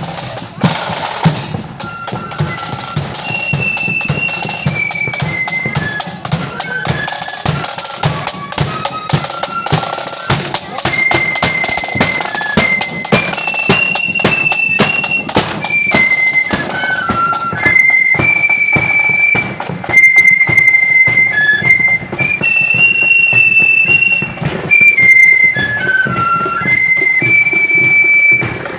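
Marching flute band playing: flutes carry a high melody over rapid snare drum rolls and bass drum beats, the flutes coming in about two seconds in after a bar of drums alone.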